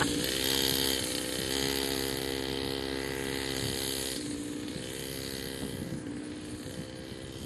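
Small 40cc two-stroke mini dirt bike engine running under a rider, the throttle dropping and opening again several times, growing gradually fainter.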